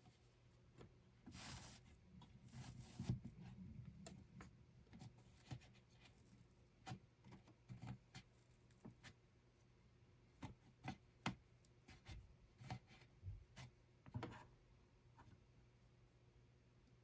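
Quiet handwork sounds in a small room: soft rubbing and rustling near the start, then a scattering of light clicks and taps.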